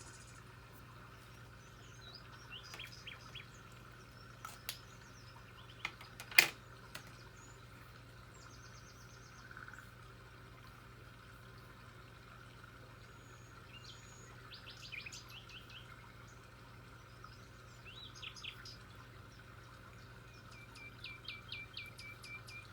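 Small birds chirping in short scattered bursts of quick high notes over a steady faint hum. A few sharp taps or clicks come about five to seven seconds in, one of them much louder than everything else.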